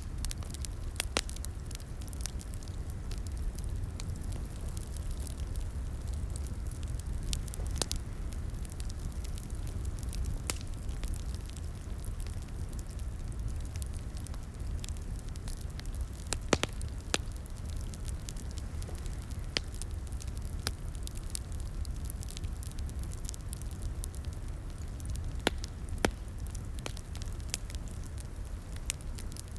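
Wood fire crackling in a fireplace: a steady low rumble of flames with irregular sharp pops and snaps, a few louder ones scattered through.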